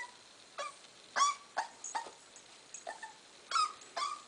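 A seven-week-old puppy whimpering in a string of short, high yelps, about seven in four seconds, some sliding down in pitch.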